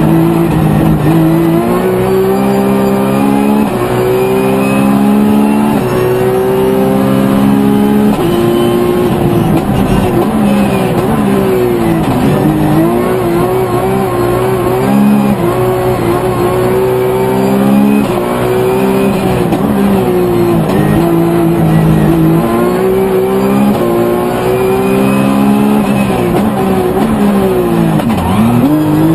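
Rally car engine heard from inside the cockpit at full stage pace. Its pitch climbs and steps with each gear change, then drops sharply several times as the driver lifts and downshifts for corners.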